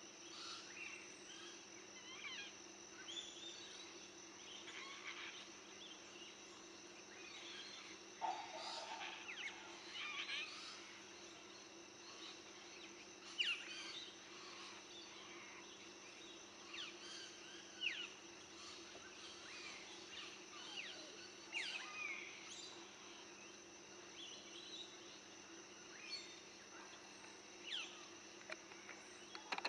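Birds calling: many short, high chirps that sweep downward in pitch, scattered irregularly, over a steady high whine and a low hum.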